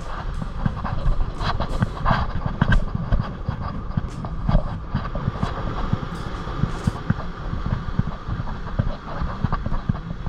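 Wind buffeting the microphone in a continuous, gusty low rumble, with a few sharp clicks and knocks over it.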